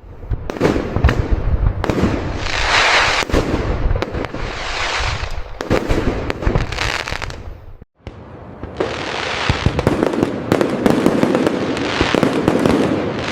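Fireworks display: a rapid run of sharp bangs from aerial shells, with swelling waves of crackle from the bursts. The sound cuts out abruptly for a moment about eight seconds in, then the bangs and crackle start again.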